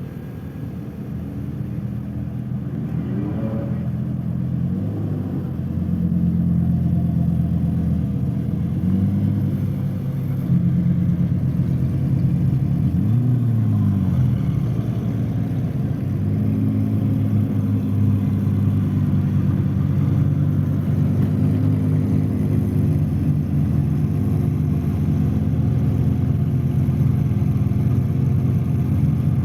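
Lamborghini supercar engines running, a low steady drone that grows louder over the first several seconds. There are brief revs about three seconds and thirteen seconds in.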